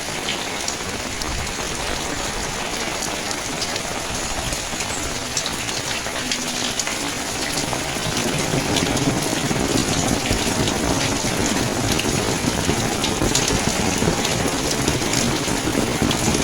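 Steady rain falling, with many small drops ticking sharply; about halfway through a louder, deeper rush of flowing water joins in and stays.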